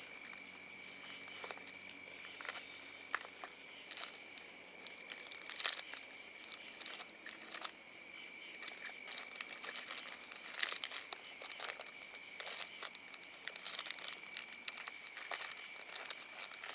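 Plastic packets crinkling and rustling, with light clicks, as someone rummages through a gear bag for soft-plastic fishing lures. Underneath runs a steady high trill of night insects.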